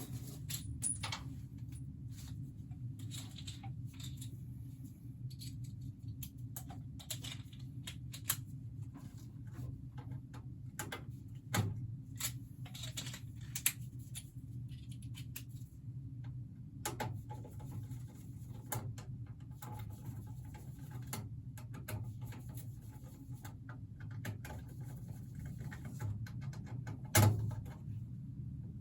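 Scattered clicks, taps and light knocks of hand work on furnace parts and tools, over a steady low hum. Two louder knocks stand out, about twelve seconds in and near the end.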